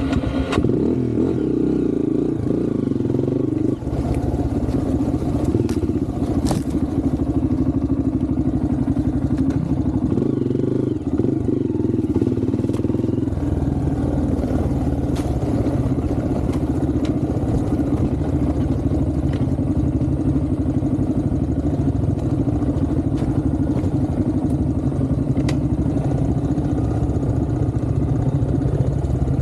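Trail motorcycle engine running steadily as the bike is ridden, its pitch shifting a little as the throttle changes, with a few sharp knocks and clatter from the bike over the ground.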